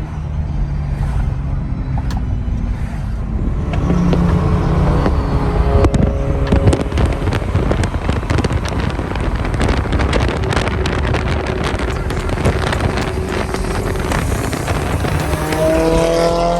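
Toyota GR Supra A90 with a Tomei titanium dual exhaust, the engine running under way with a dense crackling texture through the middle. Near the end the engine revs, its pitch rising.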